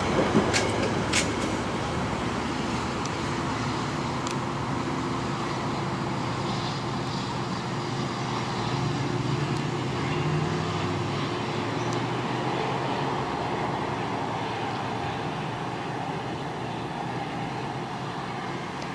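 A diesel commuter train hauled by an MPI MP36PH-3C locomotive pulls away. A few sharp wheel clicks on the rails come in the first second as the last car passes, then a steady rumble of engine and wheels slowly dies away.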